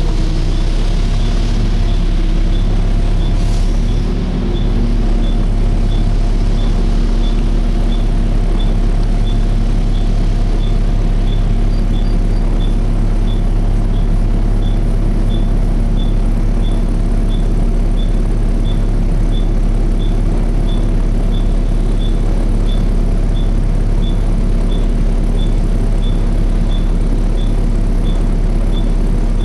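Volvo B7TL bus engine and cooling fan running steadily, heard inside the bus, with a constant hum and no fan screech. A light tick repeats about one and a half times a second throughout.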